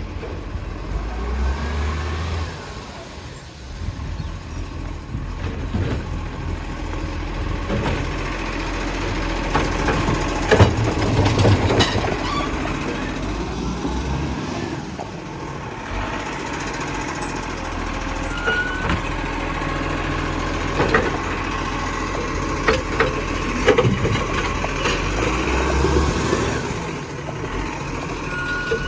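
Garbage truck running while it works, with scattered sharp clanks and three brief high hisses of air.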